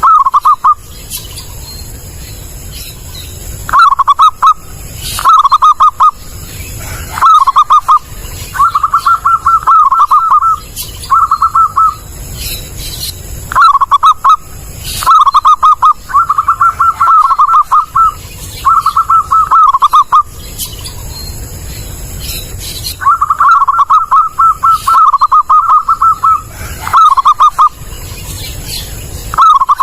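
Zebra dove (perkutut) singing: about a dozen phrases of quick pulsing coo notes, each lasting from under a second to a few seconds, with short pauses between them.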